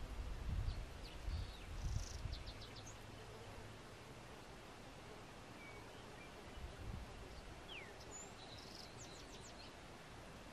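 Small birds chirping faintly: quick runs of short high notes about a second in and again near the end, and one falling note near the middle, over a steady outdoor hiss. Low rumbling in the first couple of seconds is the loudest sound.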